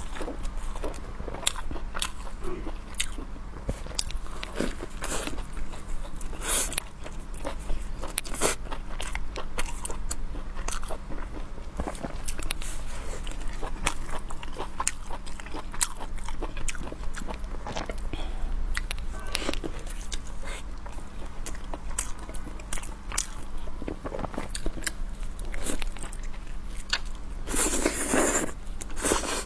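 Close-up mukbang eating: crunchy bites and chewing, with many sharp crackling clicks, and a louder noisy burst near the end.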